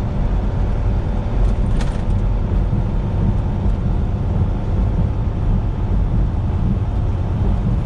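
Steady engine drone and road rumble inside a semi-truck's cab while driving on the interstate, with one brief click about two seconds in.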